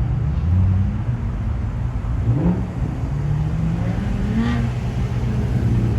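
Car engines running at idle, with a short rise in revs about two seconds in and another a couple of seconds later.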